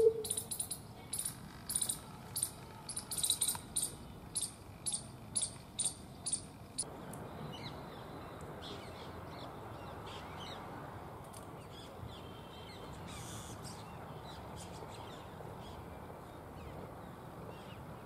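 Bird calls: a string of short, sharp, high-pitched notes about twice a second, stopping after about seven seconds and leaving a steady outdoor background.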